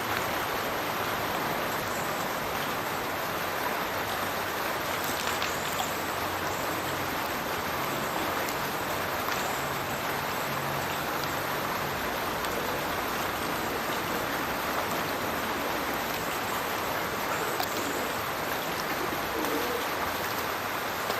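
Steady rushing and splashing of a burn pouring from a culvert outlet into a river below, with small splashes standing out now and then.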